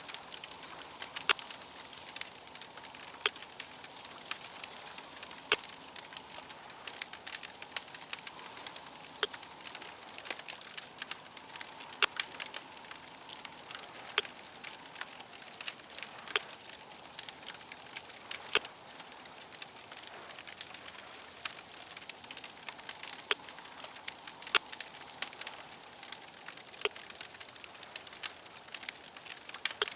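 Crackling fire: a steady hiss with frequent irregular sharp pops and clicks.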